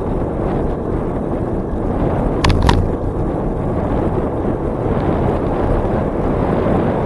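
Wind buffeting the microphone of a camera on a moving bicycle, a loud steady low rumble. Two sharp clicks come close together about two and a half seconds in.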